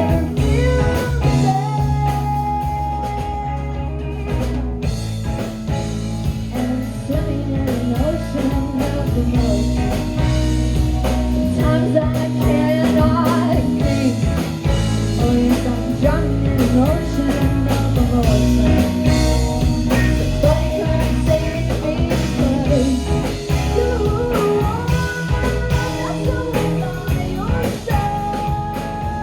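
Live rock band playing: electric guitar lines with bending notes over bass and a drum kit.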